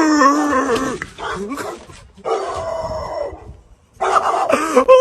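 A dog howling in about four drawn-out, wavering calls with short pauses between them.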